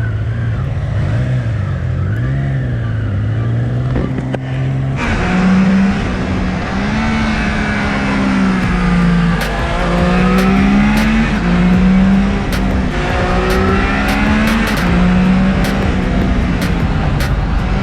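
Motorcycle engines running under way, their pitch rising and falling again and again as the bikes accelerate and change gear. The sound changes abruptly about five seconds in, to a higher, stronger engine note.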